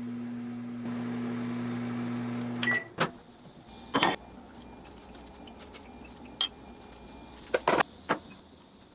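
Microwave oven running with a steady low hum that stops about three seconds in with a short beep, followed by a series of sharp clicks and knocks.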